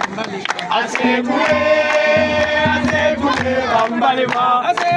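Music: several voices singing held notes together over a steady drum beat and bass.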